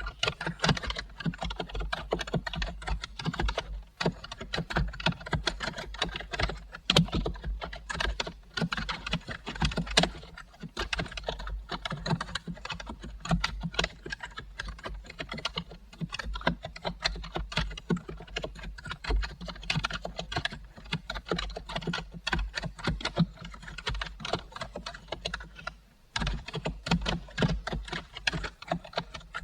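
Steady typing on a computer keyboard: rapid, continuous key clicks, with a short pause near the end.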